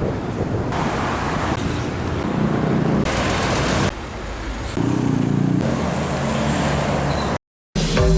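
Road traffic with heavy vehicles passing: steady tyre and engine noise, with an engine's drone swelling twice. It cuts off abruptly near the end, and electronic music with a heavy beat starts.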